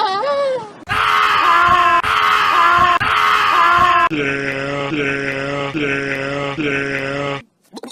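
Goats and sheep bleating in short edited clips. A wavering bleat comes first, then about three seconds of loud screaming bleats. After a sudden cut comes a lower, steadier call that pulses about every half second and stops abruptly near the end.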